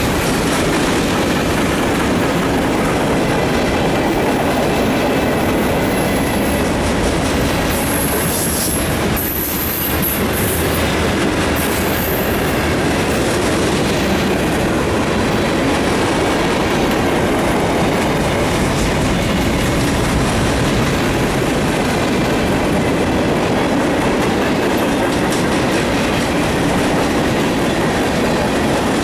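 Mixed freight train rolling past at close range: a steady rumble of wheels on rail with a clickety-clack over the rail joints, and brief high wheel squeals in the first half.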